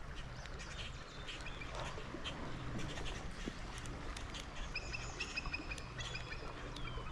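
Bald eagle calling overhead: a quick series of high, thin chirping notes about five seconds in.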